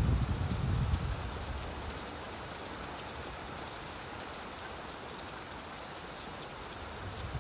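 Steady rainfall hiss. A low thunder rumble dies away over the first second or two, and faint small crackles sit over the rain, in keeping with a fireplace.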